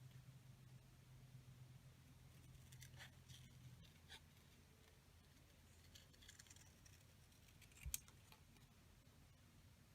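Faint snips of scissors cutting paper, a few scattered snips with one sharper click near the end, over a low steady hum that stops about four seconds in.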